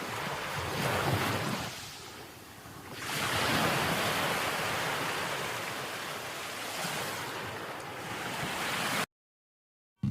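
A rushing noise like surf, swelling and fading in slow surges, that cuts off suddenly about nine seconds in.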